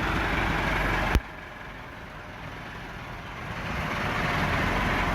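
Massey Ferguson 375 tractor's diesel engine running steadily. About a second in, a sharp click and the sound drops away abruptly to a quieter level, then swells back up over about a second near the end.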